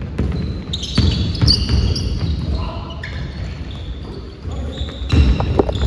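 Basketball game on an indoor court: a ball bouncing on the floor, short high squeaks of sneakers, and players' voices in the echoing gym.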